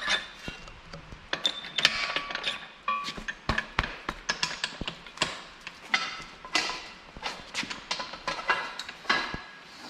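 Steel parts of a manual tube bender being loosened and taken apart: a busy run of metal clanks, clicks and knocks, some with a short ring.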